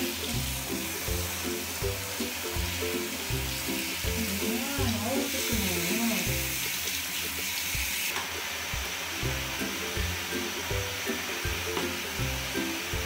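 Handheld shower head spraying water over a wet cat's fur, a steady hiss that eases about eight seconds in, under background music with a steady beat.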